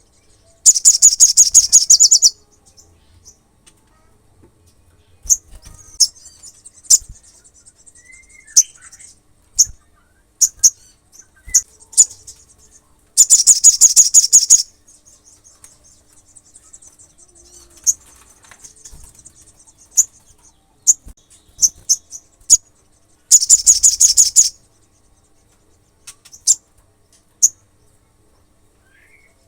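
Olive-backed sunbird in full song: three loud, fast, very high trills of about a second and a half each, near the start, in the middle and near the end. Between them come sharp single chips and a softer high twittering.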